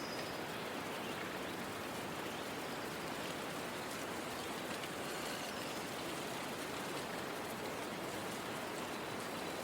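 Steady, even outdoor hiss with no distinct events in it.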